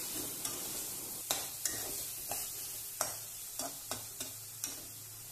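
Onion-garlic masala paste with tomatoes and spice powders sizzling in oil in a kadai, stirred with a spatula that scrapes and knocks against the pan every half second to a second. The masala is being fried until the oil separates.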